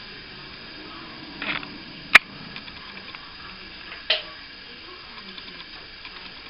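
A few sharp clicks and knocks in a small room: a softer one about one and a half seconds in, the sharpest just after, and another about two seconds later.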